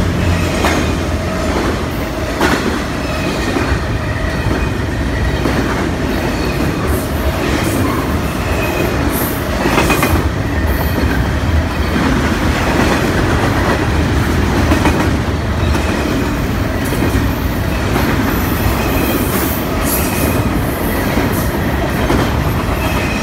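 Norfolk Southern double-stack intermodal freight train rolling past close by: a steady loud rumble of the cars, with irregular wheel clacks over the rail joints and a few brief high wheel squeals.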